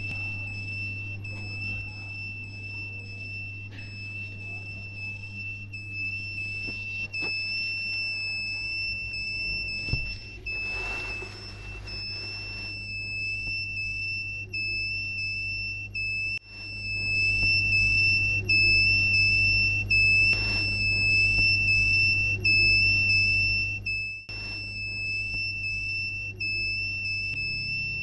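Rain-alarm buzzer sounding one continuous high-pitched tone that wavers slightly in pitch: water on the rain sensor has triggered the alarm. Two short bursts of noise cut across it, about eleven seconds in and again near twenty seconds.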